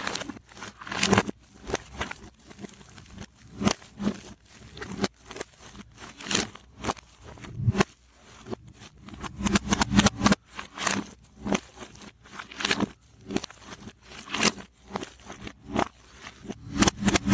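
Slime squished and stretched over shaving foam, played in reverse: sticky crackles and pops coming in irregular clusters.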